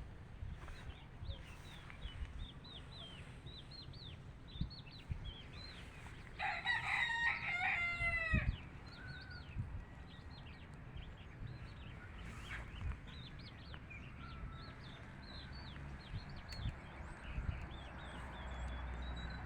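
A rooster crows once, a loud call of about two seconds, a third of the way in. Small birds chirp with short, quick calls throughout.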